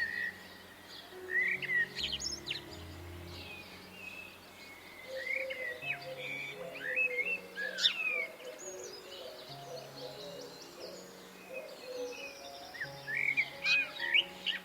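Small birds chirping in quick clusters of short, sweeping calls, about two seconds in, through the middle, and again near the end. Soft background music runs underneath.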